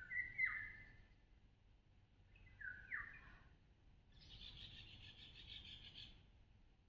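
Songbird calling: two short whistled calls, each ending in a quick downward sweep, the first right at the start and the second about three seconds in, then a buzzy rattle lasting about two seconds. Faint.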